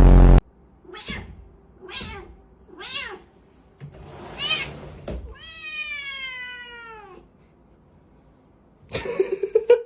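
Domestic cat meowing: three short meows about a second apart, a louder meow, then one long drawn-out meow that falls in pitch. A loud, deep thump sounds right at the start.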